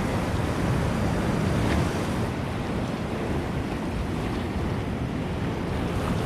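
Steady surf and wind at the sea's edge, with wind rumbling on the microphone.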